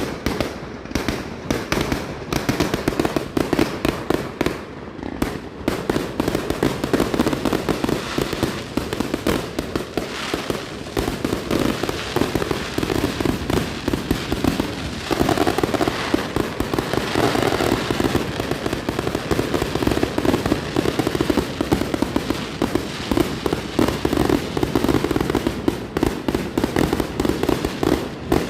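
Fireworks going off as a dense, unbroken crackle of rapid pops.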